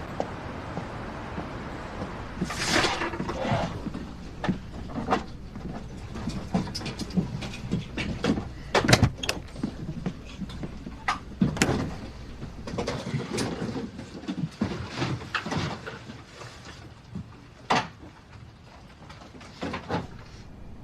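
Irregular sharp clicks and knocks over a steady low background hum, with a longer hissing swish about two and a half seconds in.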